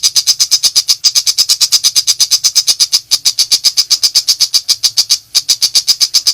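Pentet macan shrike giving its rapid-fire 'nembak' call: a fast, even series of sharp, rattling notes, about nine a second, with two brief breaks.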